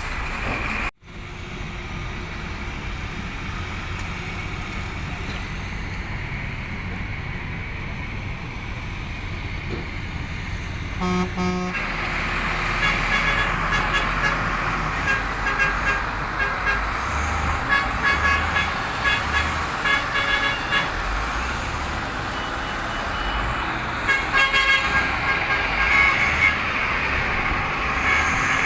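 Heavy dump truck engine running, with a short horn toot about eleven seconds in and then repeated short, high beeps over the engine through the second half.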